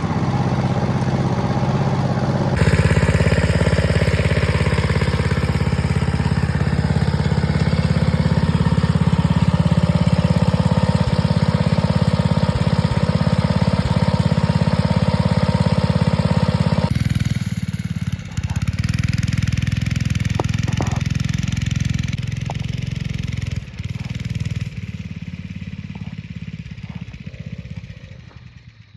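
Small go-kart engine running continuously. Its sound changes abruptly about two and a half seconds in and again about seventeen seconds in, then fades away near the end.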